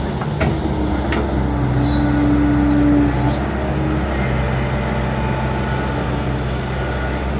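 Heavy diesel engine running steadily with a low hum, its note swelling slightly about two to three seconds in. A couple of faint ticks come near the start.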